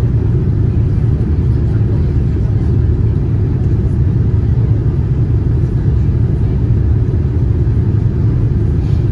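Steady low rumble of a Boeing 787-9 airliner with GEnx engines, heard inside the passenger cabin: engine and airflow noise at an even level.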